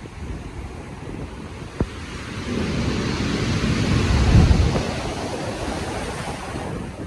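Stormy ocean waves: a steady rushing surf in which one wave swells about two and a half seconds in, breaks loudest around the middle, and washes away.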